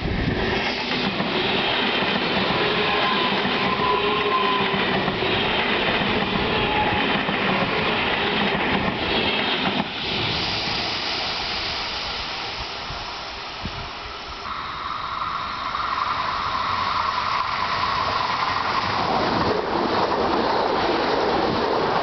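ICE high-speed electric train passing close at speed: a loud, steady rush of wheels on rail and air, with some rail clatter and a faint whine over the first several seconds, going on as the train runs past and away.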